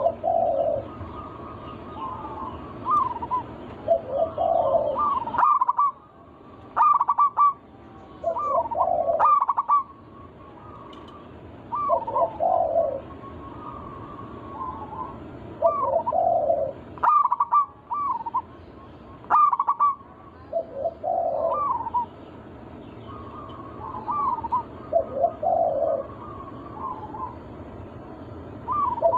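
Zebra doves (perkutut) cooing: short, rapid, bubbling coo phrases repeated every second or two, some overlapping, over a steady low background hiss.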